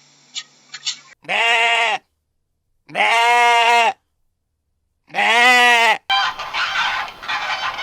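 Bleating livestock: three long, wavering bleats about a second apart, each lasting roughly a second. About six seconds in, a busier, noisier sound takes over.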